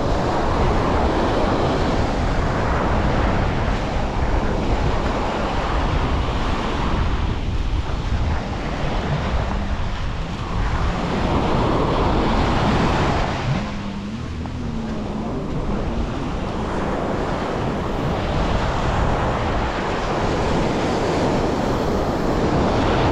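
Surf breaking and washing up on a beach, swelling and easing every few seconds, with wind buffeting the microphone.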